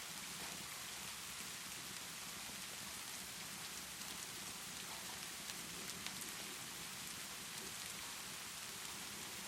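Steady rainfall with the scattered crackle of a wood fire; a couple of slightly louder pops about halfway through.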